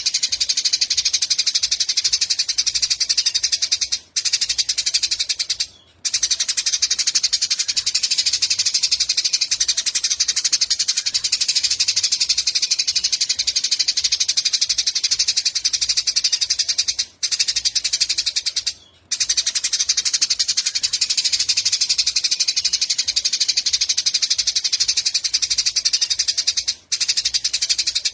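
Eurasian tree sparrows chirping in a dense, rapid, continuous chatter, broken by a few brief gaps. This is a looped 'masteran' tutor recording, played for a white-rumped shama to learn the calls.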